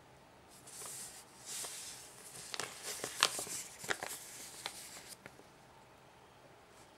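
A folded paper origami model being handled and creased: soft rustling, then a run of sharp crinkles and snaps in the middle, stopping a little over five seconds in.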